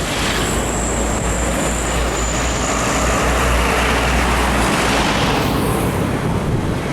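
Road traffic running close by: steady engine and tyre noise, with a heavy low rumble that drops away about four and a half seconds in.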